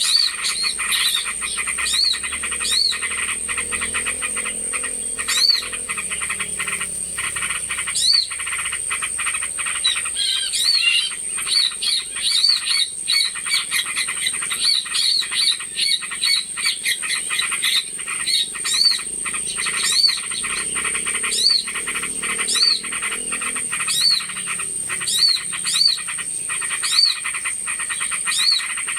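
Bird-lure recording of small birds chirping busily, with one rising-and-falling call repeating about once a second and a denser flurry of calls about ten seconds in, over a steady high-pitched whine.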